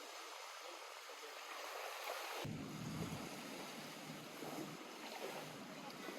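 Lake water lapping and washing at the shore, a steady watery hiss. About two and a half seconds in the sound changes suddenly and a deeper rumble joins it.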